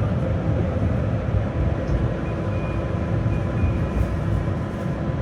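Tram running along its rails between stops, heard from inside the passenger car as a steady low rumble.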